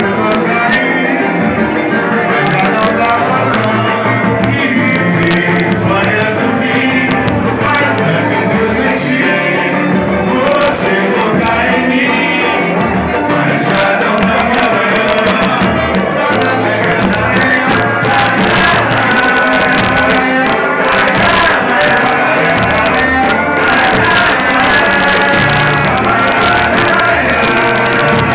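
Band music with a steady beat: a song played on amplified instruments with drums.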